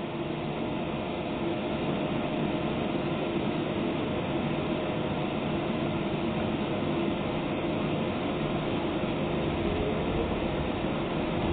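Docklands Light Railway train heard from inside the carriage: a steady electric hum as it pulls away from the platform, with a motor whine rising in pitch near the end as it speeds up.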